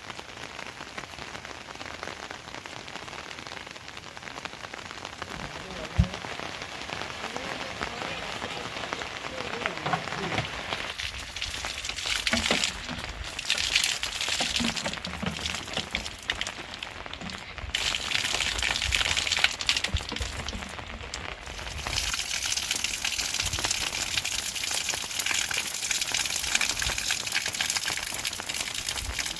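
Rain falling steadily, heavier in the second half, with a single sharp knock about six seconds in.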